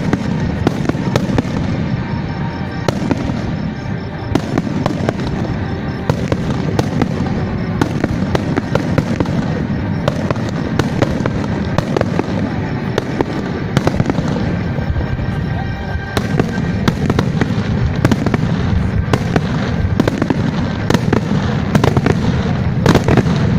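Fireworks display going off: a continuous barrage of sharp cracks, many a second, over a steady low rumble of bursts.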